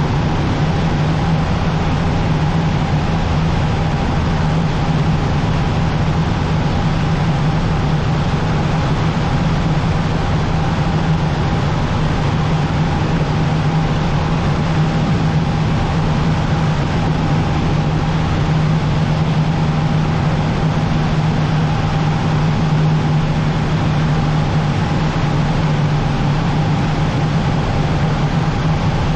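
Cessna 150's four-cylinder Continental O-200 engine and propeller in a steady, even drone at constant power.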